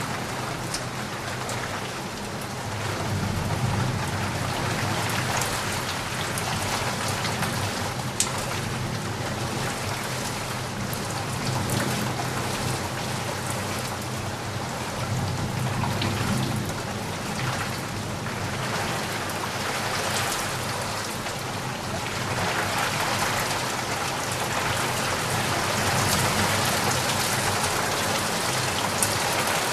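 Heavy rain pouring steadily. Underneath it, a low rumble swells and fades several times.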